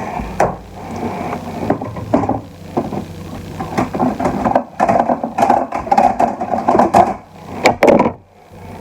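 Kitchen prep noises: irregular knocks, clicks and scrapes of a knife and raw ribs being handled on a cutting board.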